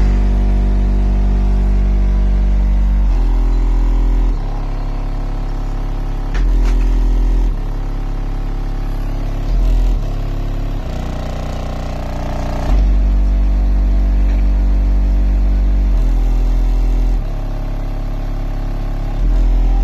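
Heavy bass music played loud through Resilient Sounds Onyx 15-inch car subwoofers driven by a Taramps MD12000.1 amplifier: long, very deep bass notes that change every one to three seconds, with the loudest notes near the start, about halfway and near the end.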